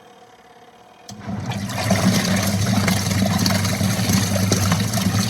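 A twin-tub washing machine's wash motor switches on about a second in with a steady hum, and water churns loudly in the wash tub.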